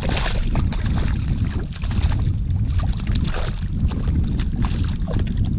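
Wind buffeting the microphone, with scattered short clicks and knocks from handling on the kayak.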